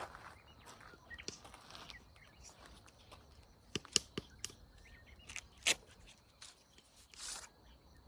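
Footsteps and rustling through dry brush and undergrowth: scattered snaps and crunches, the sharpest about halfway through, with a longer rustle near the end.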